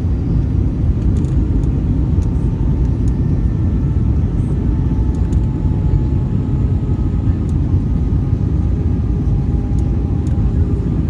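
Airbus A320 cabin noise during descent: a steady low rumble of engines and rushing air, with faint engine tones slowly falling in pitch.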